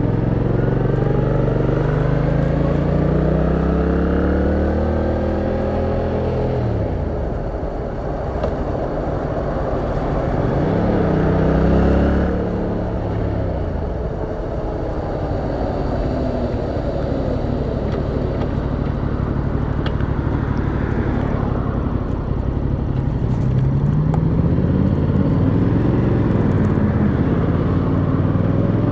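Yamaha MT-07's 689 cc parallel-twin engine heard from the rider's seat while riding in traffic: it pulls up in pitch over the first few seconds, drops off about seven seconds in, gives a short rev-and-fall near eleven seconds, runs low for a stretch with road noise, then revs up again with a couple of gear changes near the end.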